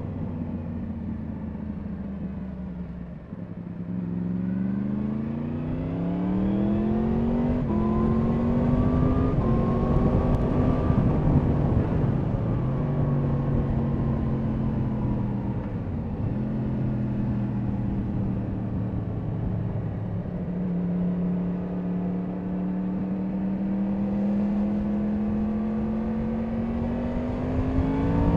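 Yamaha MT-10 SP's crossplane inline-four engine pulling under way. Its pitch climbs, drops back at gear changes a few times, then rises slowly again near the end, over steady wind rush.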